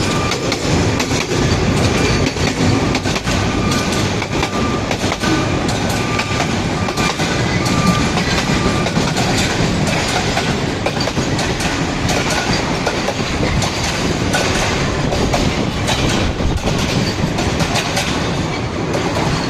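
A moving train running steadily, its wheels clattering over the rail joints with a continuous rumble and many short clicks.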